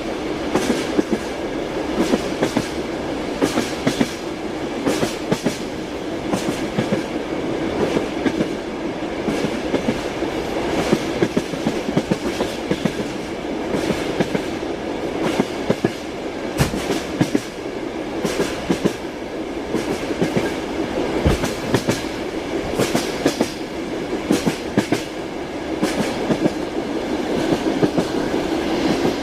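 Train wheels clattering over rail joints as the train runs along: a steady rumble and hum with frequent sharp clicks.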